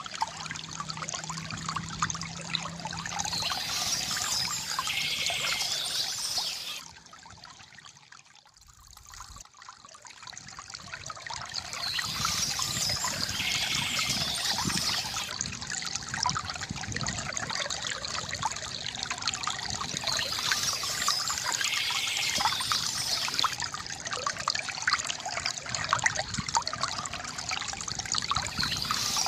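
Stream water trickling and splashing over stones in a steady rush. About seven seconds in it fades down sharply for a few seconds, then swells back.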